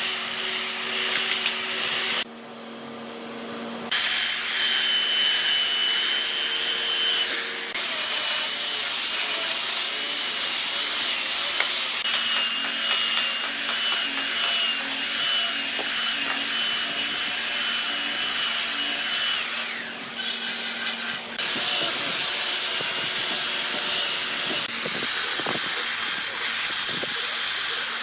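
An electric power tool cutting or sanding hardwood: a steady motor hum with a high whine that comes and goes over a rough rasp. The sound drops away abruptly about two seconds in and returns a moment later.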